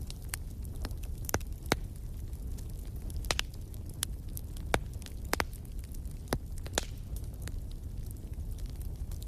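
Wood fire burning in a stone fireplace, crackling with irregular sharp pops over a steady low rumble.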